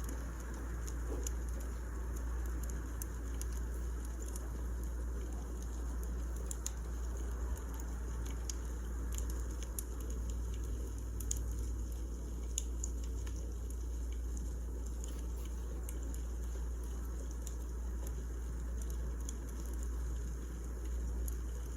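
Wood fire crackling: scattered, irregular small snaps and pops over a steady low rumble.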